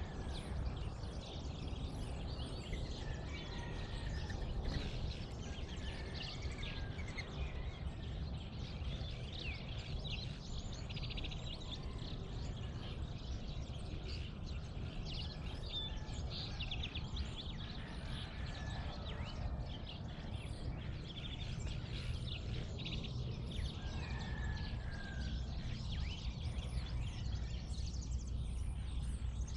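Dawn chorus of many birds chirping and calling at once, over a steady low rumble.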